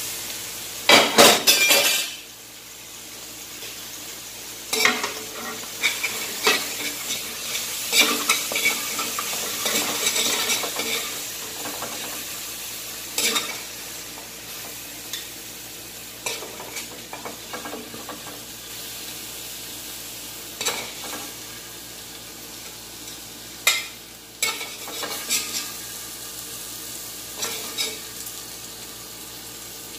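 Raw chicken frying in hot oil in an aluminium wok: a steady sizzle that flares up again and again as more pieces drop into the pan. Metal knocks and scrapes against the wok come with it, and the loudest clatter is about a second in.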